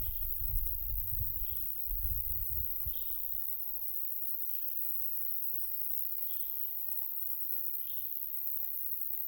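Summer field ambience: a light wind buffets the microphone as a low rumble for the first three seconds, then eases. Under it runs a steady high insect trill, and a short call repeats about every second and a half.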